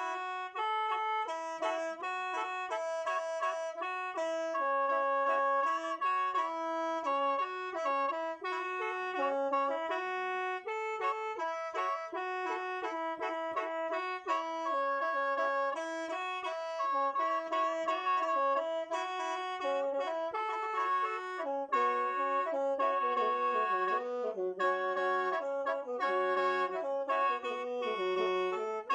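Lao khaen, a bamboo free-reed mouth organ, played solo: a running melody over held drone notes, with several pipes sounding at once.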